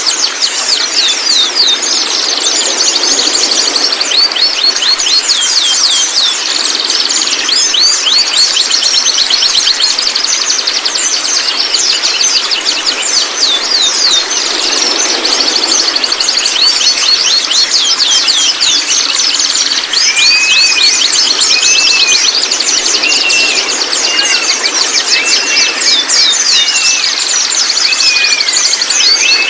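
White-rumped shama (murai batu) giving its 'trotol' call: fast chattering runs of short, high, downward-sweeping notes. About two thirds of the way through, a lower arched note starts repeating about once a second alongside the chatter.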